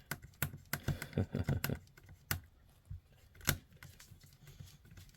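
Light clicks and taps of a hand driver and plastic RC chassis parts being handled during screw assembly: a quick run of clicks in the first two seconds, then a few single clicks.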